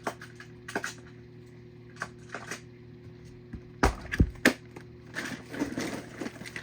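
Sharp clicks and clatter of small diecast toy cars being handled and set down, with several quick knocks about four seconds in and a light rustle after.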